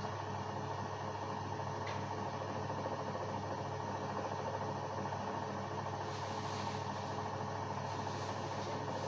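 LG WD-1054FB washing machine running, a steady mechanical hum, with a light hiss joining about six seconds in.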